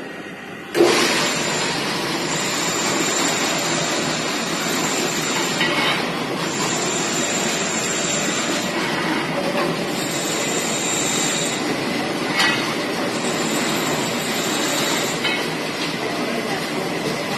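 Plate rolling machine running as it bends a steel plate: a sudden start about a second in, then a steady grinding run with a high squeal that comes and goes four times.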